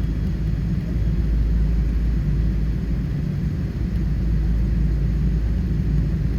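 Steady low rumble of a Boeing 777-300 airliner's cabin in flight: engine and airflow noise heard from inside.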